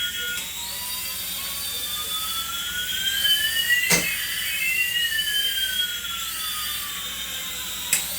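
Electronic sweeping tones: one pitch rises slowly while another falls, the two crossing about halfway with a sharp click, over a high warbling pattern that repeats about once a second.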